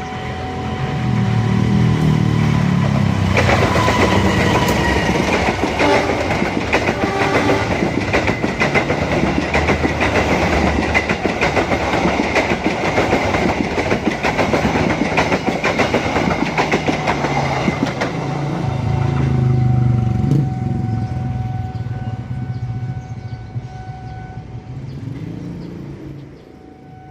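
Train passing close by at speed, its wheels clattering rapidly over the rails for about twenty seconds, with a heavy low rumble as it arrives and again near the end, then fading away.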